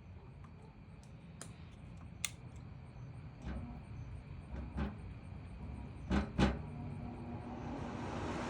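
Scattered knocks and clatters over a low steady rumble around a furnace blower unit. Near the end a rush of air starts to build as the blower begins to spin up.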